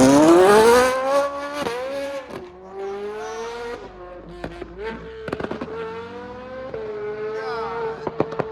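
High-performance car engine revving hard as the car accelerates away: its pitch climbs steeply in the first second, then holds a steadier note. Sharp exhaust pops and crackles break in about five seconds in and again near the end, like fireworks going off.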